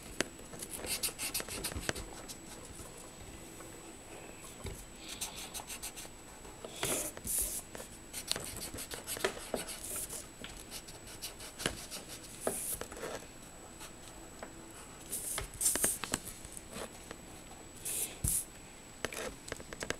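Colouring strokes scratching back and forth on paper, in irregular bursts with short pauses, as the bird's body is filled in blue.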